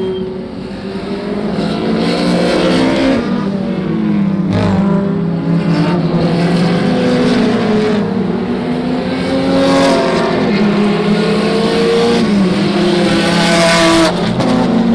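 Several historic racing car engines at high revs, overlapping as the cars pass one after another. The pitch rises and falls repeatedly with throttle, gear changes and the cars going by.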